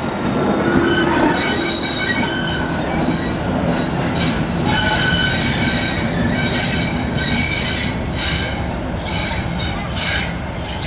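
Train wheels squealing on the rails in repeated high-pitched patches over a steady low rumble from the train hauled by Class 37 diesel locomotive 37025.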